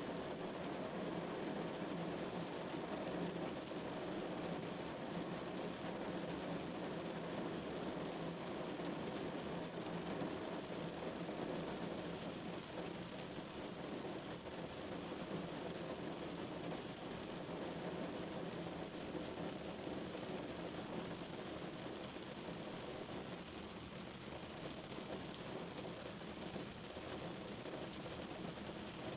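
Rain falling steadily on a car, a dense even sound with no pauses, heaviest in the lower middle range.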